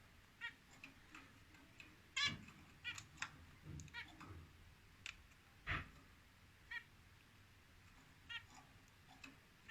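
Zebra finches giving short, nasal call notes, a dozen or so at irregular intervals, the loudest about two seconds in.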